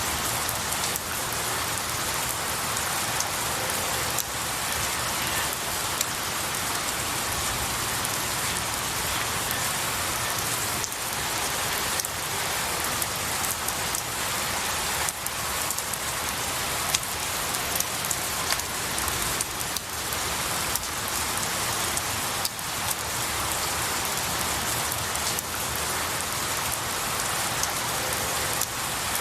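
Steady rain falling on pine needles and a tree: a dense, even patter with individual drops striking close by here and there.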